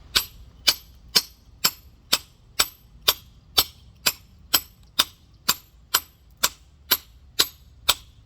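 Worn rock hammer striking a large geode in steady, evenly spaced blows, about two a second, each a sharp crack with a brief metallic ring, to split the stone open.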